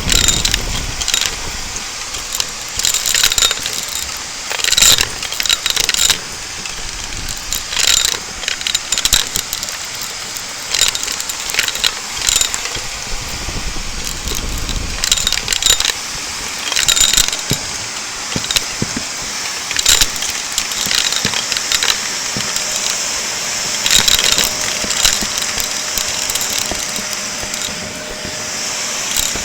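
Shark vacuum cleaner running with a steady hiss, with frequent sharp crackles and rattles as crunchy debris is sucked up. Near the end the crackling stops and only the steady motor hiss remains.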